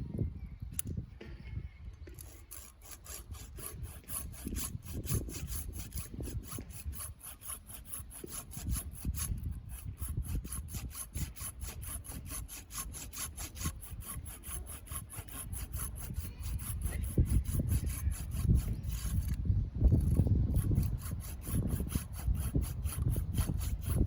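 A hand saw cutting through wood in quick, even back-and-forth strokes that stop about 19 seconds in, with low rumbling handling noise underneath.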